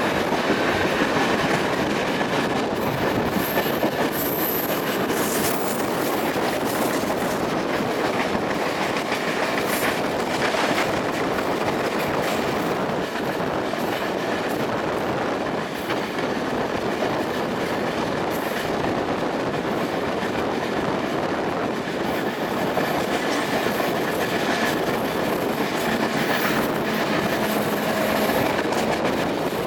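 Steady clatter and rumble of a Mumbai suburban EMU's wheels on the track, heard from its open doorway while moving, mixed with the running noise of a passenger train on the adjacent line.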